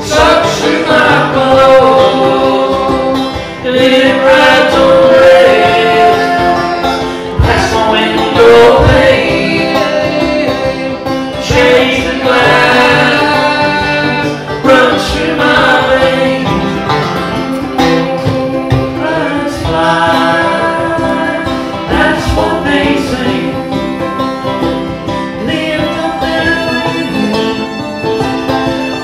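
A band playing a bluegrass-style country song, with a lead vocal over plucked string instruments.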